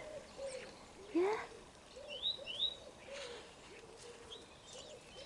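Chickens clucking softly in a run of short, low, repeated calls. A small songbird gives two quick high rising chirps about two seconds in.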